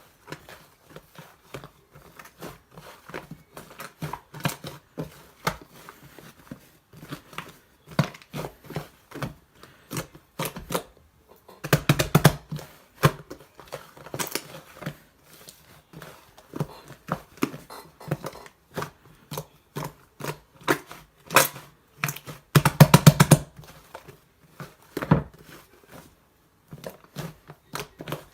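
Sky-blue slime squished and pressed by hand, giving a steady run of small sticky clicks and pops. Denser flurries of pops come about twelve and twenty-three seconds in.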